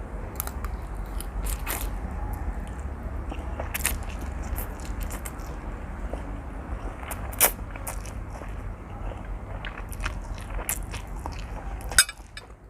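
Close-up chewing of spicy seafood instant noodles: wet clicks and crackles from the mouth over a steady low hum. Two sharper clicks stand out, about seven seconds in and near the end.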